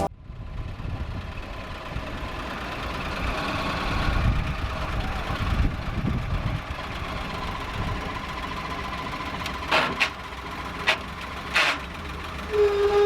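An old Willys Jeep's engine running while the Jeep is driven, a steady rumble that rises and falls. Near the end come a few sharp knocks or clicks.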